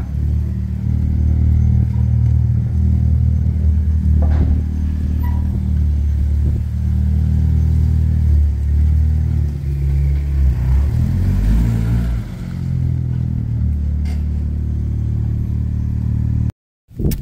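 Tuned Alfa Romeo MiTo 1.4 MultiAir turbo four-cylinder, with a bigger turbo, new downpipe and valved exhaust, running as the car pulls off the lift ramps and moves slowly. Its note rises and falls a couple of times about two-thirds through, and the sound cuts off abruptly just before the end.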